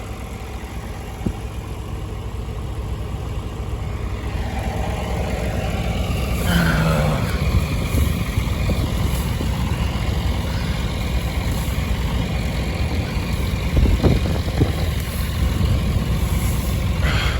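Farm tractor engine running steadily, a little louder after about five seconds, with a couple of sharp knocks about two-thirds of the way through.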